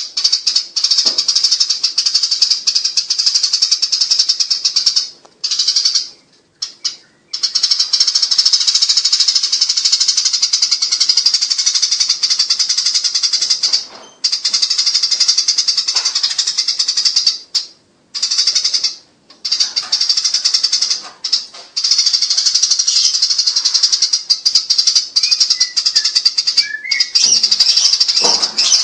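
Eurasian tree sparrows chattering in a dense, rapid, shrill stream of chirps, the squabbling chatter of sparrows fighting, broken by a few short pauses.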